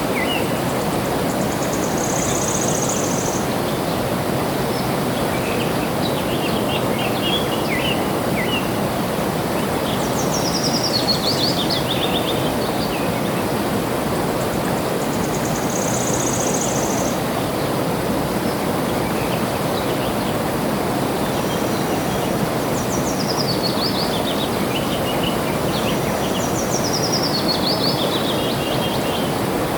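Water flowing steadily with birds singing over it. Falling runs of quick high notes come three times, about ten seconds in and twice near the end, and a short high buzzy call comes twice.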